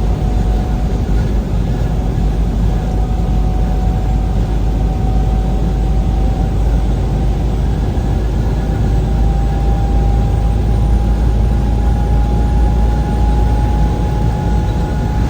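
Truck driving on a highway: a steady low engine and road rumble, with a faint whine that slowly rises in pitch.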